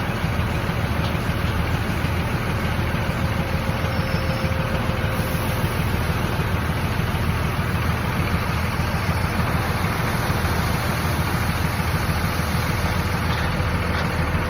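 A heavy machine's engine running steadily at an even, idle-like speed.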